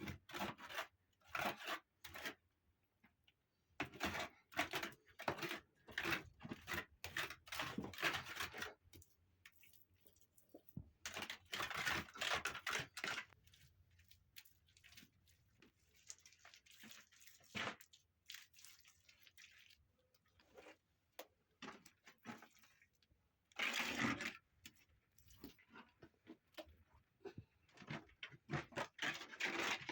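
Irregular knocks and clatters mixed with bursts of scraping or rustling noise, sounding like things being handled in a small room.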